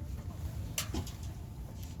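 Steady low rumble inside a Shinkansen carriage, with a short sharp click or two a little under a second in.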